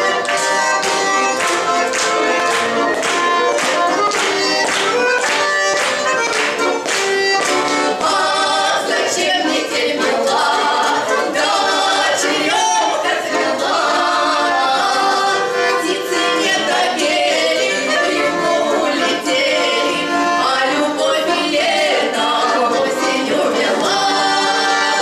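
Two bayans (Russian button accordions) playing a folk-song accompaniment, with sharp rhythmic chords about two a second. About nine seconds in, a women's duet starts singing over the bayans.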